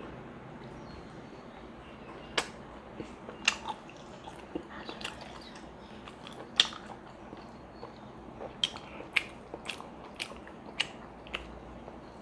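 Close-miked eating of pork momos: biting and chewing, with about a dozen sharp, irregular wet mouth clicks and smacks over a low steady hiss, starting about two seconds in.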